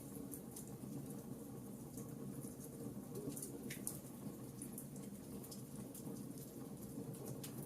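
Wood fire burning in a fireplace: a steady low rush of flames with frequent small, irregular crackles and pops of burning wood, one slightly bigger pop about halfway through.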